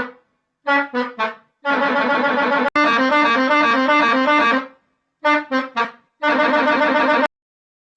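Musical bus horn playing a tune with a reedy tone: three quick toots, then a longer passage that switches rapidly between two notes. The pattern is played twice.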